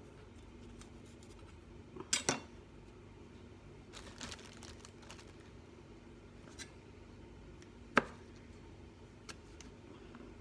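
Kitchen knife tapping on a chopping board while capsicum is trimmed and deseeded: a few scattered sharp taps, a quick cluster about two seconds in and the loudest one about eight seconds in, with a brief rustle around four seconds, over a faint steady hum.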